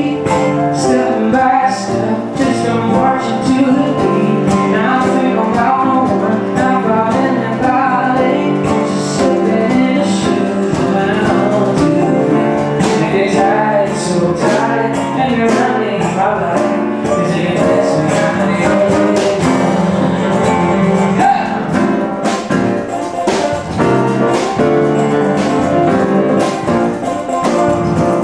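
Live band music with a steady beat: keyboard and hand percussion playing, with some male singing over it.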